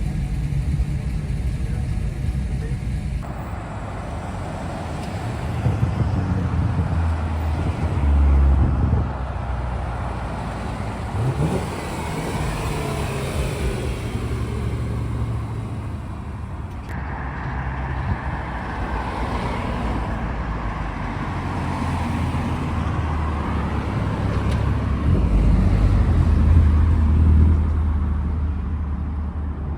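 Car engines and road noise, rising and falling, with louder spells about eight seconds in and near the end.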